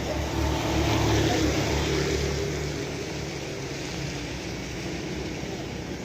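Steady rain hiss with a motor vehicle's engine passing. The engine hum swells to its loudest about a second in, then fades.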